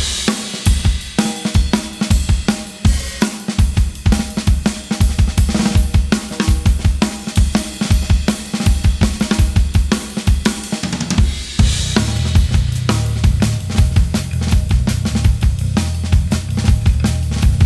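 Live band music dominated by a fast, driving drum kit with cymbals. A heavy sustained bass comes in about twelve seconds in.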